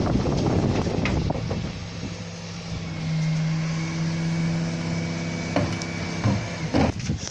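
Bin lorry at work collecting wheelie bins: clattering and knocking for the first couple of seconds, then a steady droning hum from the truck for about three seconds, then a few sharp knocks near the end.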